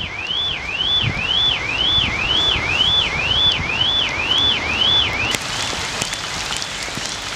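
Car alarm siren sounding, a rising whoop that repeats about twice a second, over steady heavy rain. The alarm drops away to faint about five seconds in, and a few sharp ticks follow near the end.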